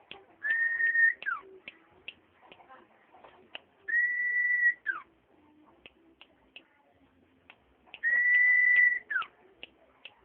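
Common iora singing: three long, steady whistled notes a few seconds apart, each ending in a quick downward slur, with short sharp ticks in between.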